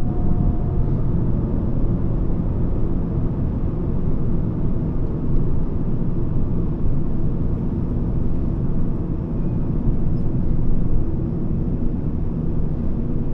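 Volvo S40 II 2.4 with its 2.4-litre five-cylinder petrol engine under way: a steady low rumble of engine and road noise, with no clear revving.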